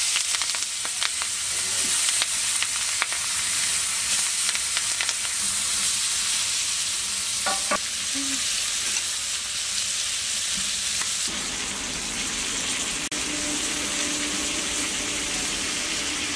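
Prawns coated in salt and turmeric sizzling steadily as they fry in hot mustard oil in an aluminium kadai, with a metal spatula clicking against the pan now and then as they are stirred.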